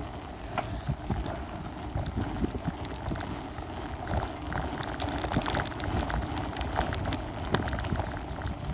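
A bicycle ridden over a rough trail, picked up by a phone duct-taped to a small tripod on the front of the bike: irregular knocks and rattles from the bike and the mount over bumps, over a steady low rumble from riding.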